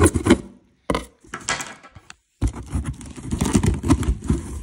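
Taped cardboard box being cut and pulled open by hand: scraping, crinkling packing tape and sharp clicks, with two brief dead silences in the first half.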